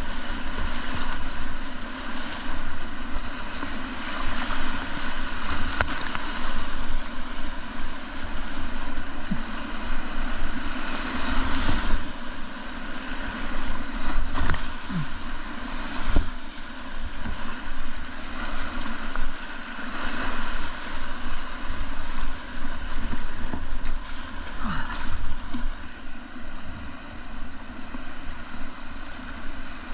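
Rushing whitewater of a river running high, with wind buffeting the microphone. A few sharp knocks stand out around the middle.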